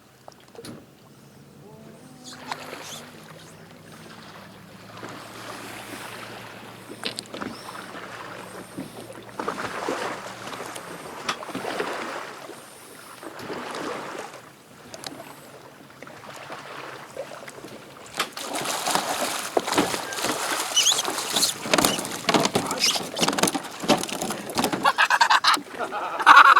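Water splashing and sloshing around a kayak as a hooked cobia is fought at the side, growing louder and busier from about two-thirds of the way in. A low steady hum sits under the first half.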